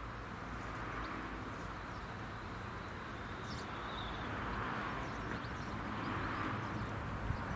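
Steady outdoor rushing noise that swells slightly, with short bird chirps now and then.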